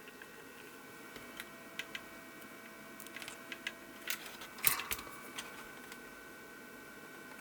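Small clicks and taps of desoldering work on a circuit board, with a short louder burst of clicks and hiss about four and a half seconds in, over a faint steady electrical hum.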